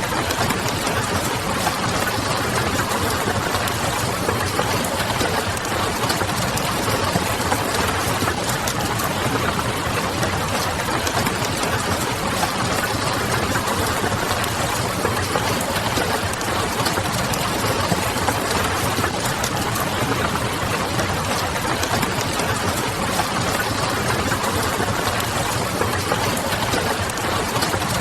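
Steady rain hiss with small, scattered crackles of a wood fire and a low, even hum underneath.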